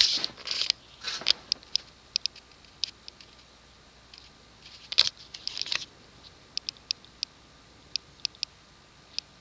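Leading Edge Hi-Tech II stamped-steel ceiling fan running quietly on low speed, with scattered light clicks and ticks at irregular intervals.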